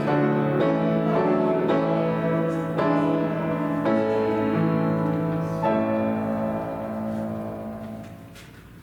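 Piano playing slow, full chords of a hymn tune, ending on a long final chord that dies away near the end.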